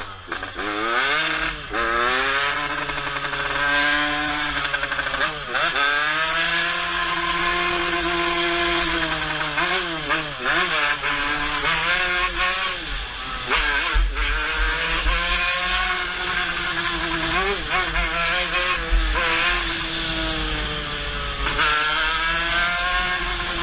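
Motorcycle engine accelerating hard, its pitch rising and then dropping again and again as it runs up through the revs and shifts gear.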